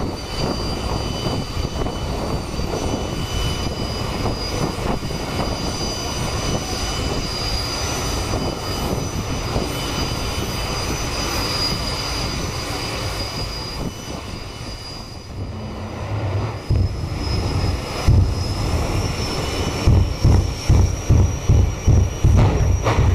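Jet funny cars' turbine engines running, a steady high whine slowly rising in pitch over a loud roar. Past the middle the roar dips, then a series of deep pulsing thumps begins, speeding into a regular beat of about two a second near the end.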